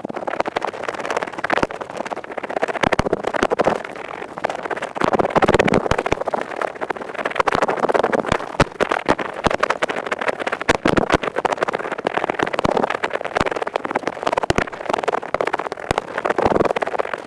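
Ear pick scratching and scraping fast and close to the microphone, a continuous run of crackly, rapid scratching.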